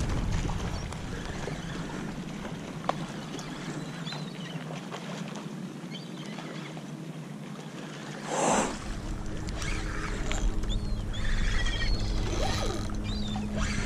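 Water sloshing and splashing around a kayak, with a few short high bird calls. About eight and a half seconds in there is a single loud whoosh, after which steady low tones join in.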